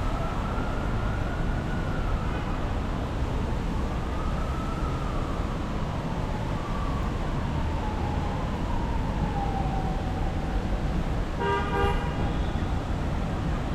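Emergency vehicle siren wailing slowly up and down over a steady traffic rumble, with a short car horn toot near the end.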